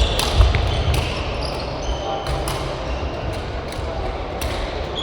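Badminton doubles play in a sports hall: several sharp racket-on-shuttlecock hits at irregular spacing, with short squeaks of court shoes on the floor and hall echo over a steady low rumble.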